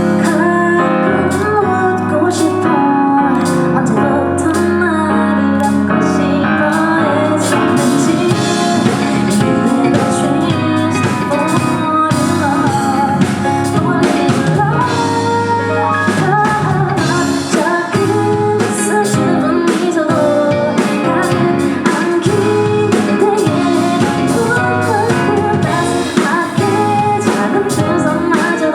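Live pop-rock band with drum kit and guitar, a woman singing over it, recorded from the audience at a concert.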